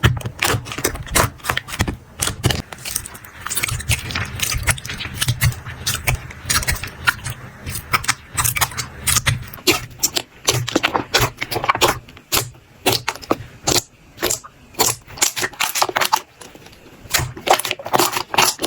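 Slime being squeezed and pressed by hand, giving a dense, irregular run of sticky clicks and crackles.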